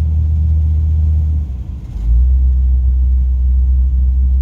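Lifted 1998 Jeep Cherokee driving through snow, a steady low engine and drivetrain rumble. About a second and a half in it dips briefly, then comes back slightly lower in pitch, as if the driver let off or shifted.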